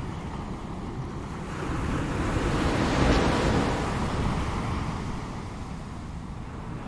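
Ocean waves breaking and washing on the shore, one wave swelling to a peak about three seconds in and then fading back.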